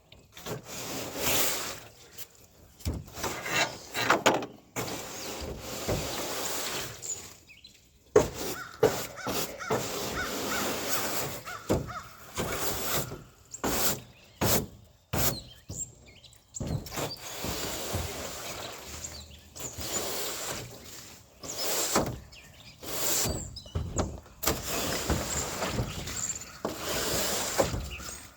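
Irregular clunks, clicks and scraping from hands-on work on a pickup truck, with short knocks scattered among longer rubbing and rustling stretches.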